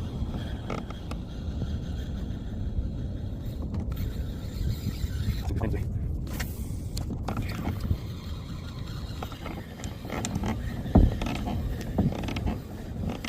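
Spinning reel being cranked to retrieve a paddle-tail lure: mechanical clicking and creaking over a steady low rumble, with a few knocks and a sharp one about eleven seconds in.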